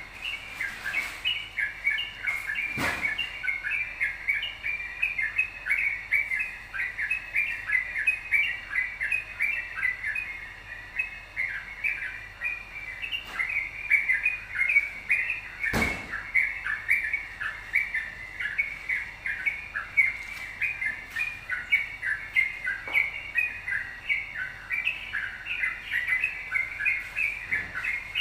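Yellow-vented bulbul (trucukan) singing a fast, unbroken chatter of short chirps. It is the rapid 'ropel' song that bird-keepers play to lure other bulbuls into singing. A couple of faint clicks sound near the start and about halfway through.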